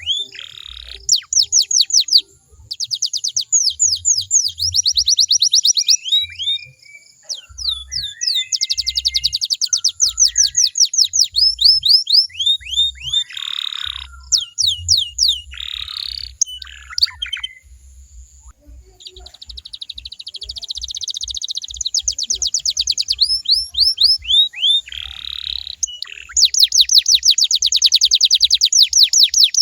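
Domestic canary singing a long song of fast trills and rolls: runs of rapid repeated down-slurred notes and buzzy rattles, phrase after phrase with short pauses between.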